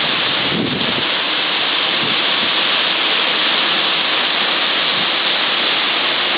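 Typhoon storm: wind and heavy rain rushing in a steady, even hiss.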